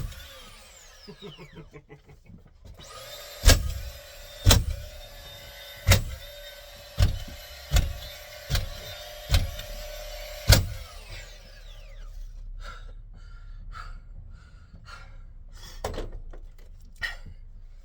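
DeWalt cordless nail gun in bump mode firing nails into OSB ceiling boards: about nine sharp shots over the first ten seconds, roughly one a second, with the tool's motor whirring between shots and winding down after the last one. Lighter clicks and knocks follow.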